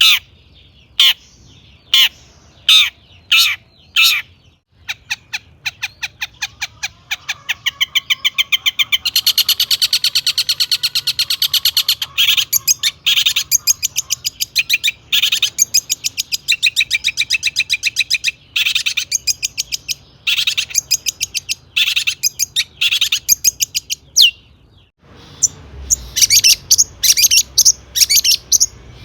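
Long-tailed shrike in full, loud song, packed with mimicked calls of other birds. It opens with a string of separate sharp calls about every half second, then breaks into fast repeated notes and dense chattering, pauses briefly near the end, and resumes with rapid calls.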